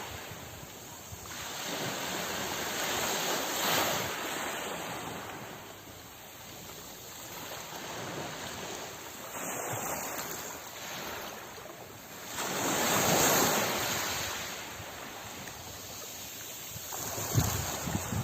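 Sea waves washing ashore, the surf swelling and falling away in slow surges every few seconds, with one larger wave breaking about two-thirds of the way through. Some wind rumble on the microphone.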